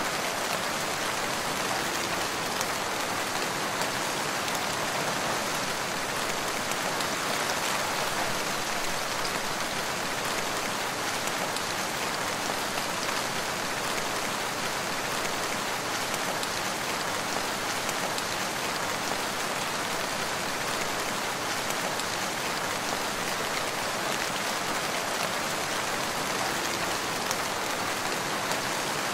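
Steady rainfall, an even hiss of many drops falling on forest foliage and ground without let-up.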